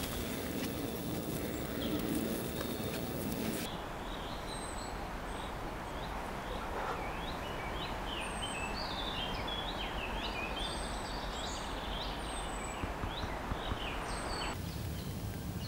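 Several small birds singing over a steady outdoor hiss: quick chirps and a high, falling whistle repeated every second or two. For the first four seconds, before the birdsong starts, there is only a rougher, even outdoor noise.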